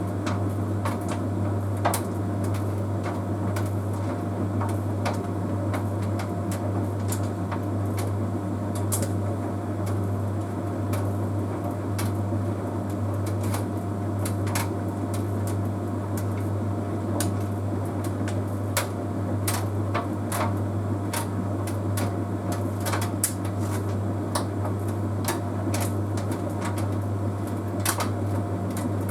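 Bosch Series 6 heat pump tumble dryer running its drying cycle: a steady low hum from the machine, with scattered light clicks and taps throughout.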